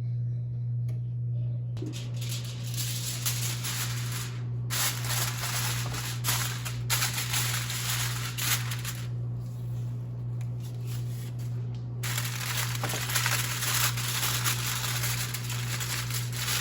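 Flour-coated chicken thighs sizzling in a hot skillet, a dense hiss that cuts in and out several times, over a steady low hum.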